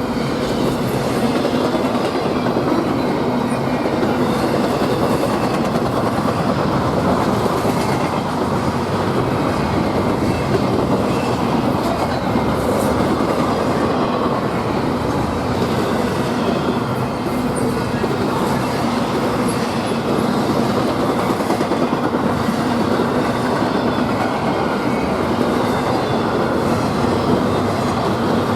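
Train passing close by, its steel wheels rolling over the rails with a steady rumble and clickety-clack.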